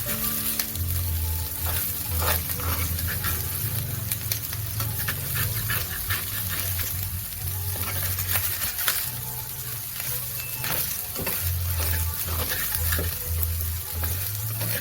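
Fried rice stir-frying in oil in a hot pan: a steady sizzle with frequent scrapes and clicks of the stirring utensil against the pan.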